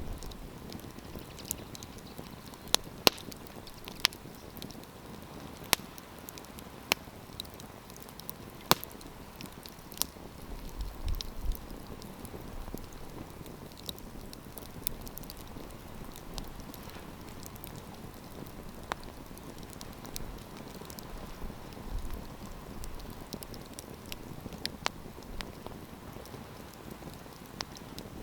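Wood campfire crackling: a steady hiss of burning with sharp, irregular pops and snaps from the wood, a dozen or so standing out.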